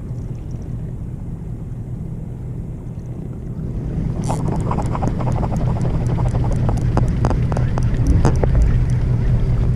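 Fishing boat's engine running steadily with a low hum. About four seconds in it grows louder and a rush of water noise with rapid crackles rises over it.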